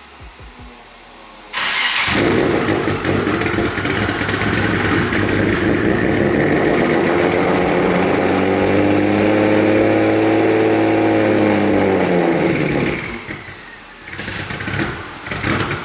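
Turbocharged Nissan Z V6 cold-starting: a brief crank, then the engine catches about a second and a half in and runs at a loud, fast cold idle. Its pitch slowly rises and then drops back about 13 seconds in, before picking up again near the end.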